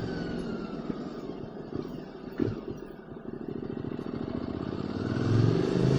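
QJ Motor SVT650X motorcycle engine through an Arrow Racetech slip-on exhaust, its pitch falling as the bike slows and dropping to its quietest about three seconds in. The engine then rises again as the bike accelerates near the end.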